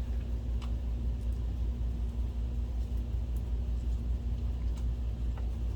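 Steady low hum with a faint fixed tone above it, broken by a few faint clicks.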